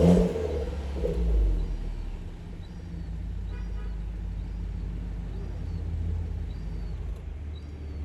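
BMW F30 320i ED engine through a custom exhaust with an extra outlet off the rear muffler, Stage 1 tuned: two short revs about a second apart, then it settles back to a steady idle rumble.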